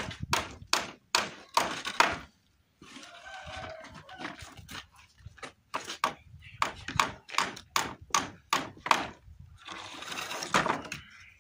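Hammer driving nails into wooden fence boards, quick blows at about three a second, broken twice by a second or so of softer noise.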